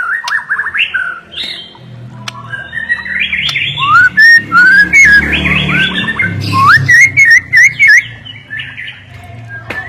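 White-rumped shama singing a fast, varied song of rising whistled notes, chattering phrases and sharp clicks, loudest in the middle. A low hum runs underneath.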